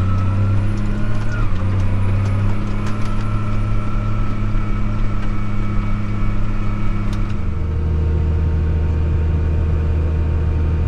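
A vehicle engine running steadily, with a faint whine above it; about seven and a half seconds in the engine note changes to a lower, steadier hum.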